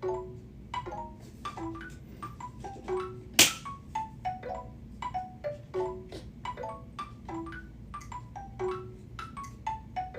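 Soft chiming notes ringing one after another in an irregular, melodic run, several a second. One sharp loud click about three and a half seconds in.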